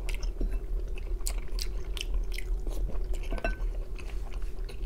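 Close-miked chewing of a mouthful of shell pasta, with irregular short mouth clicks and smacks. A steady low hum runs underneath.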